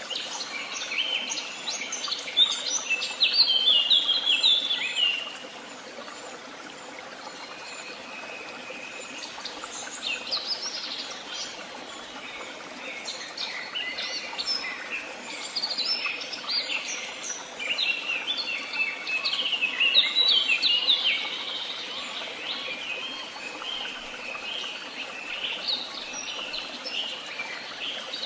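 Songbirds singing: several birds chirping and trilling, with denser, louder song about three to five seconds in and again around twenty seconds in, over a steady background hiss.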